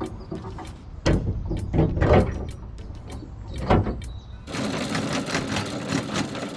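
A few knocks and heavy thumps, then from about four and a half seconds in the boat's engine running steadily with a close, rattling drone.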